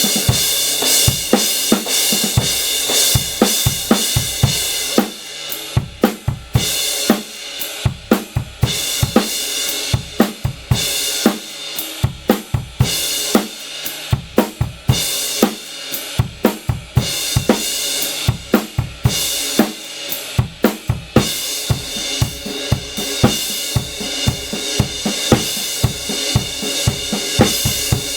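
A drum kit is played in grooves and fills with an 18-inch Kingdo Artist Classic Raw Bell crash cymbal. The crash rings and washes over the beat in long stretches, broken by sparser passages of separate drum and cymbal hits.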